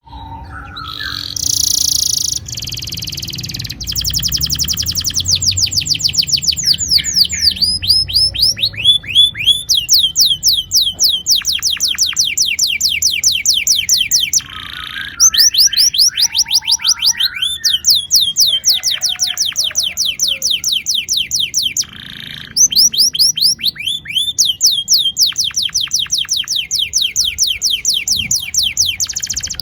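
Domestic canary singing long rolling trills: long runs of fast, repeated down-sweeping notes, with a harsher, buzzier phrase near the start and short pauses about halfway and about three-quarters of the way through.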